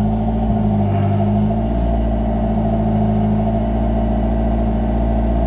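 Turbo 4G63 six-bolt four-cylinder with HKS 272 cams, heard from inside the cabin, running fully cold at a steady fast idle of about 1500 to 2000 rpm. The throttle is held open by hand because the idle air controller and fast idle air valve have been deleted, and without throttle the engine would die. It is running rich on cold-start enrichment.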